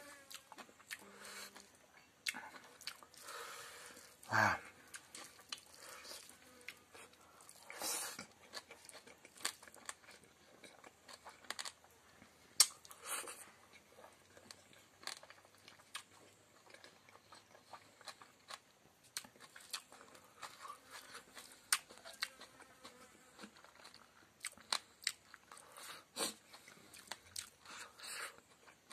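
A person chewing and crunching fried chicken intestine and pork fat with rice, with many short sharp mouth clicks and smacks.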